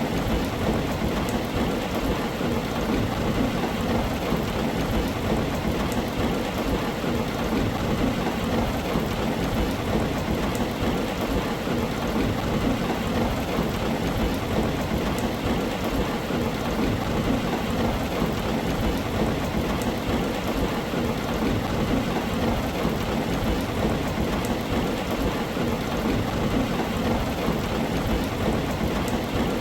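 Heavy rain drumming steadily on a tin roof, a dense, even patter that does not let up.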